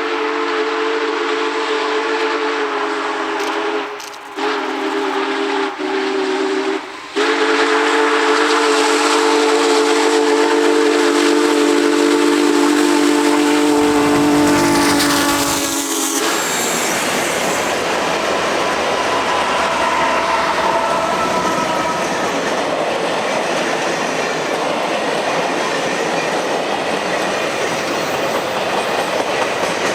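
Union Pacific Big Boy 4014's steam whistle sounding a chord in several blasts, three shorter ones and then a long one of about nine seconds that cuts off. The train then rolls past with steady rumbling and clickety-clack from the wheels on the rails.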